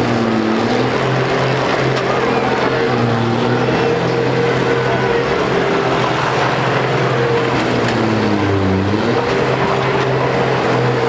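Several combine harvester engines running together in a steady drone, with revs rising and falling now and again.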